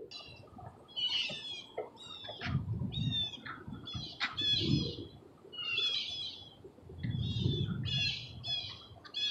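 A songbird calling over and over, short chirping phrases of quick falling notes every second or so. Low rumbling noise comes and goes underneath a few times.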